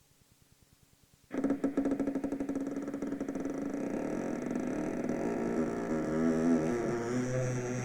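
A motor starts suddenly about a second in and runs on with a rapid stutter, its pitch wavering. Before it there is a faint, regular low pulsing.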